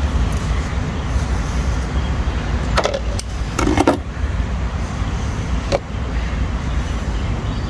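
Steady low rumble with a few sharp metal clinks: a pair about three seconds in, another a little before four seconds, and one near six seconds, from tools and parts being handled on a disassembled three-speed manual transmission case.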